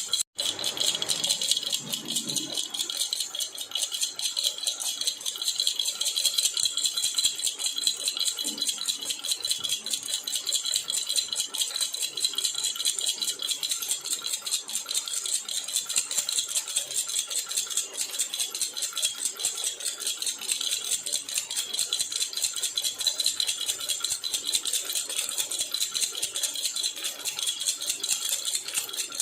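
Silver jhunjhuna baby rattle shaken continuously, a dense, fast, high rattle that keeps a steady pace throughout, broken only by a momentary gap just after the start.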